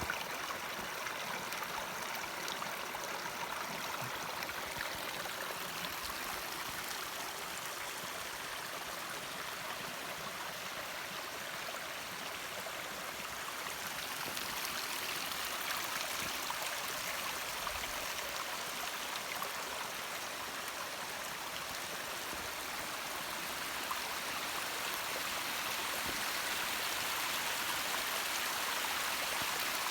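Snowmelt stream running, a steady rush of flowing water that grows a little louder in the second half.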